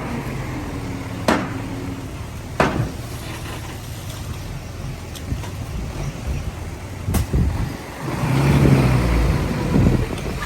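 Heavy diesel earthmoving machinery running steadily, with a few sharp metallic clanks. The engine grows louder under load near the end.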